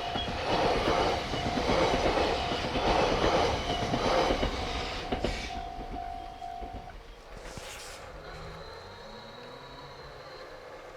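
Train passing over a level crossing, its wheels clacking about once a second, while the crossing's warning bell rings steadily. The bell stops about seven seconds in and the train noise fades away.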